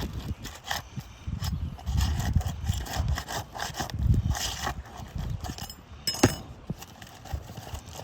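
Scraping and rubbing of roofing work on asphalt shingles, with irregular knocks and one sharp metallic click about six seconds in.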